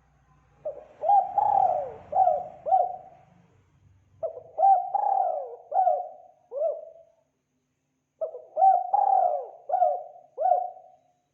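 Spotted dove cooing: three phrases of four or five coos each, separated by pauses of about a second.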